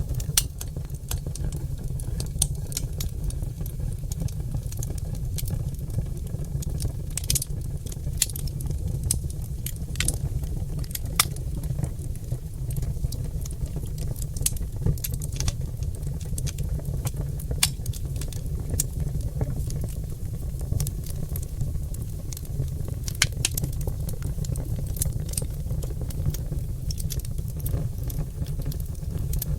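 Oak logs burning in a fireplace, crackling and popping with many irregular sharp snaps over a steady low rumble of the fire.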